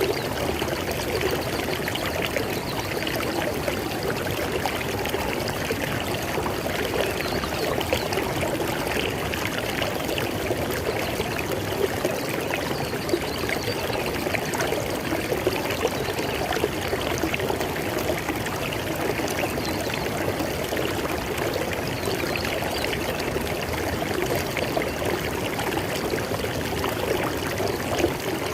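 River water flowing steadily over rocks, an even rushing and splashing with no let-up.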